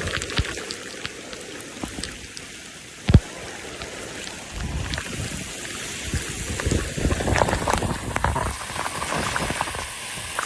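Rain falling, with a steady hiss and the patter of drops hitting surfaces; a single sharp knock about three seconds in, and heavier low rumbling through the middle.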